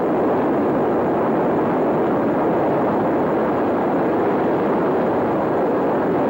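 Aircraft engines of a PBY-5A Canso water bomber running steadily, heard as an even rushing noise without a clear pitch.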